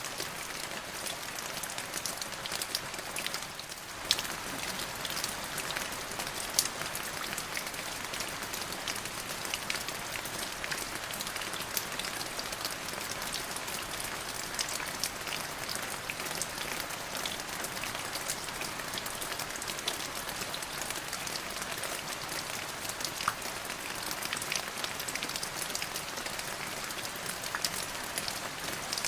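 Steady rain falling, with many close drops pattering sharply on a hard surface.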